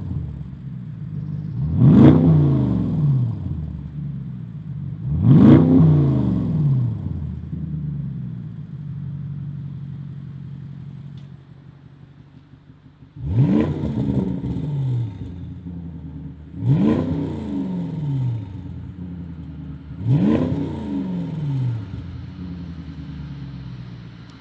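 Range Rover P530's 4.4-litre twin-turbo V8 through a Milltek Sport particulate-filter-back stainless exhaust, revved about five times. Each rev rises sharply and falls back slowly to a lower, steady running note, which is heard alone for a few seconds in the middle.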